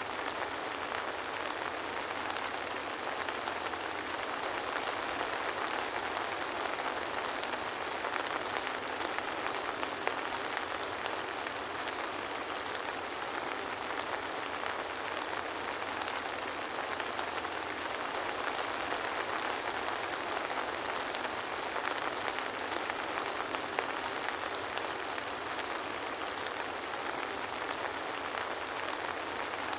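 Soft rain falling steadily, an even hiss with faint scattered drop ticks and no thunder.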